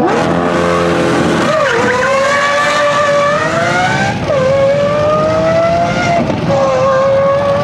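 Performance car engine revving hard, its pitch climbing steadily, then dropping sharply about four seconds in and again about six seconds in before holding high again.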